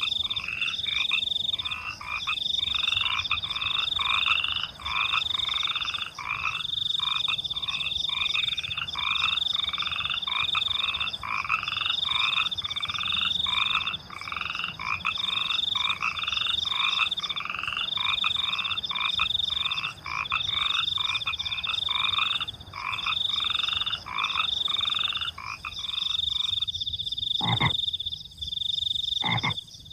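Frogs croaking over and over in quick succession, over a steady high-pitched cricket trill. The croaking stops near the end, leaving the crickets and two sharp clicks.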